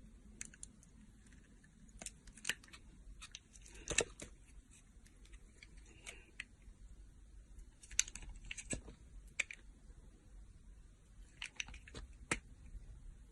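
A blade cutting and scraping into a bar of soap, making irregular sharp clicks and short scrapes as pieces come away, a few louder than the rest.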